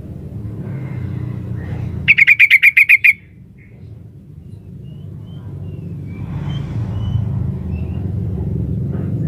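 Female yellow-vented bulbul calling to a male: a loud, rapid chattering run of about nine notes about two seconds in, followed by a few faint short calls. A steady low rumble runs underneath.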